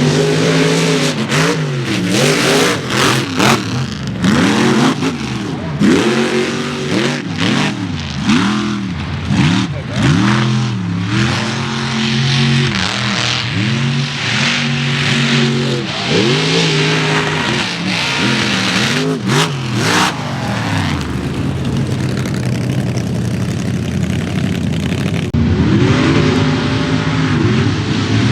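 Mega mud truck engine revving hard, its pitch climbing and falling again and again as the driver works the throttle. About two-thirds of the way through it settles into a steadier, lower drone, then revs up again near the end.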